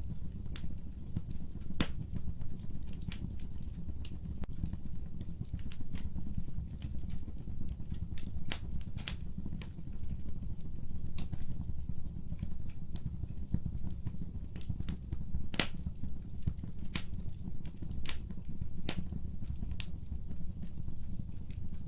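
Fire crackling: irregular sharp pops and snaps over a steady low rumble of flame.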